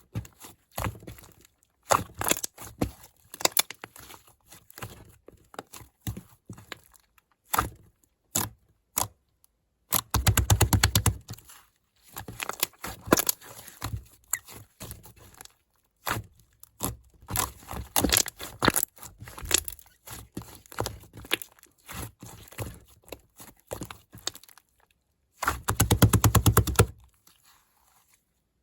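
A clay gingerbread-man figure being broken apart, with irregular cracks and crumbling crackles. It breaks into two denser bursts of rapid crunching, about ten seconds in and again near the end.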